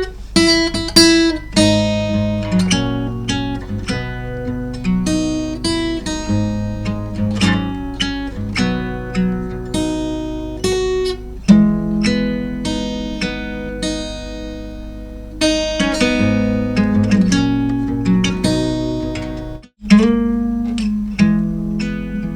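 Acoustic guitar played fingerstyle with a capo on the fourth fret: single plucked notes and bass notes picked over the chords of a pop song, with the odd strum. The sound cuts out for an instant about twenty seconds in.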